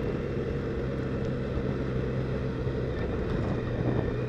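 Triumph Sprint GT's three-cylinder engine running at a steady cruise, with wind noise on the microphone.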